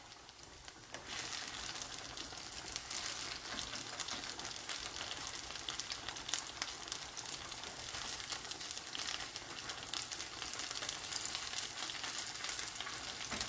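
Boiled gnocchi pan-frying in a crowded nonstick frying pan, sizzling and crackling as a silicone spatula turns them. The sizzle picks up about a second in. The pan holds too many pieces and has lost some heat.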